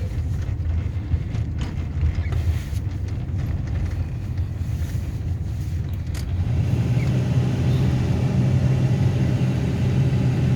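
Subaru driving slowly on a snow-covered mountain road: a steady low engine and road rumble. About six seconds in the low hum rises in pitch and gets a little louder.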